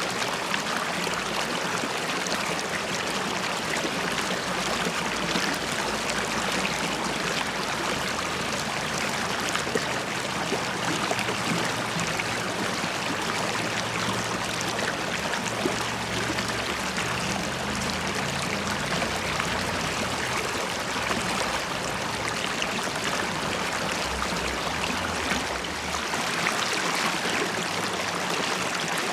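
River water flowing and bubbling over stones, a steady, even rushing with gurgling.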